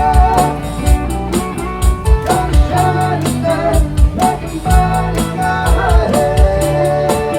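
Live rock band playing an instrumental break: drum kit with a steady hi-hat and kick, a bass line, and a lead melody with bent notes.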